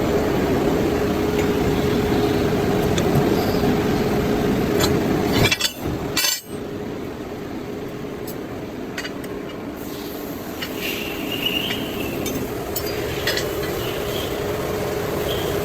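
Workshop machinery: a motor running with a steady hum. About six seconds in it cuts off abruptly, and quieter noise follows with scattered metallic clinks.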